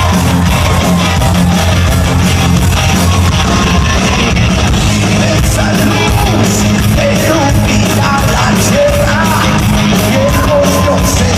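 A rock band playing live and loud, with heavy bass and guitar and a voice singing or yelling over them; regular cymbal hits come in about halfway through.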